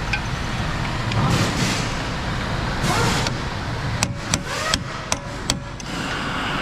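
Steady workshop background noise, with four short sharp knocks a little past the middle, spread over about a second and a half.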